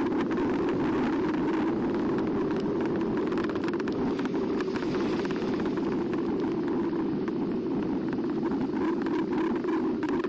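Steady rushing noise of an eBike in motion: wind across a bike-mounted camera's microphone, mixed with tyre noise.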